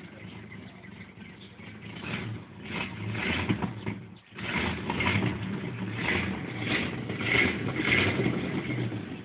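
The 1979 Lincoln Mark V's 400 cubic-inch (6.6 L) V8 runs at an uneven idle that dips sharply about four seconds in, then swells and fades roughly every half second or so. The idle is set too low and needs raising.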